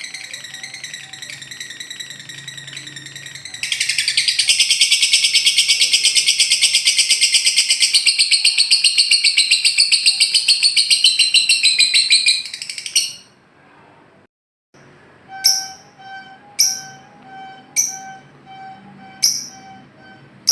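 Lovebird chattering, then breaking into its long, loud ngekek trill: a fast run of high, scratchy notes, about seven a second, that holds for some eight seconds and breaks off. After a short gap a sharp high chirp repeats about once a second over steady held tones.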